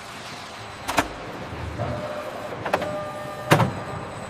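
Workshop machinery: two sharp metallic clanks, about a second in and again near the end, with a short electric motor whine between them, over a steady background hum.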